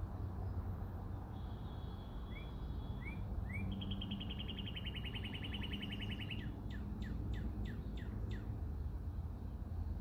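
A songbird singing: a short held high note, three quick rising notes, a fast trill lasting a couple of seconds, then a run of about seven sharply falling notes. A steady low rumble lies underneath throughout.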